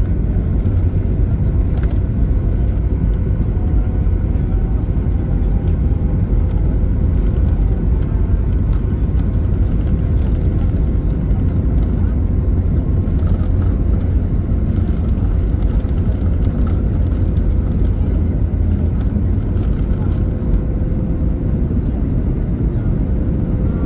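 Steady rumble of a jet airliner's engines and airflow heard inside the passenger cabin, with a faint constant tone above the low drone.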